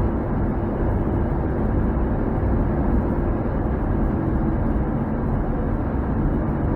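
Truck engine pulling under load uphill, towing a trailer with a tractor, with a steady drone and road noise heard from inside the cab.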